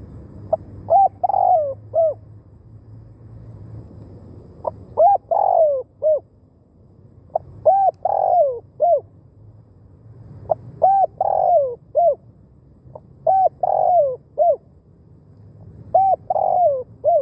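Spotted dove cooing: six phrases about every two and a half to three seconds. Each phrase is a short note, a longer note that falls in pitch, and a short closing note.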